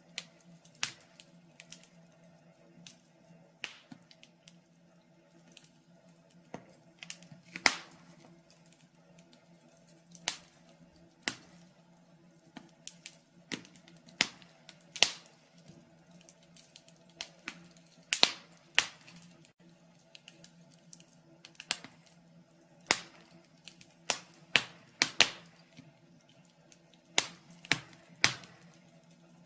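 Wood fire crackling in a fireplace: irregular sharp pops and snaps, a few every couple of seconds, some much louder than others, over a faint steady low hum.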